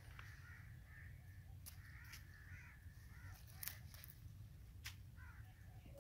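Faint birds calling over quiet outdoor ambience, with a few soft clicks scattered through.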